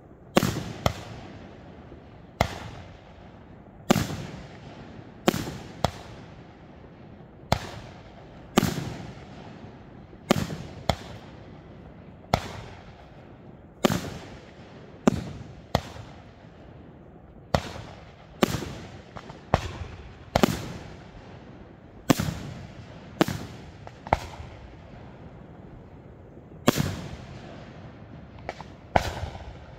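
Aerial firework shells bursting in a steady sequence: about two dozen sharp bangs, roughly one a second and sometimes in quick pairs, each trailing off in a fading echo.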